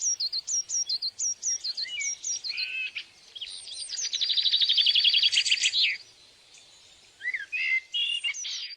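Birds calling and singing: a run of high, two-part chirps that drop in pitch, about three a second, then a fast, high trill lasting about two seconds, then a few scattered chirps.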